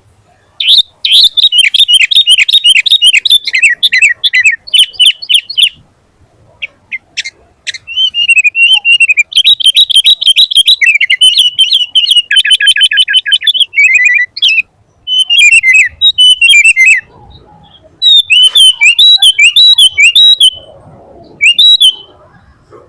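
Sooty-headed bulbul (kutilang) in full song: loud, fast phrases of quick chirps and falling notes, separated by short pauses.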